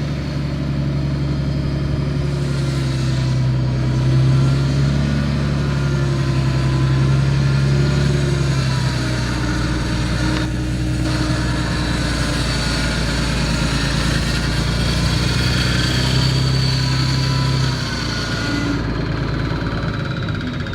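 Ford boom truck's engine running steadily, its pitch and level shifting a little now and then, with a faint higher whine over it.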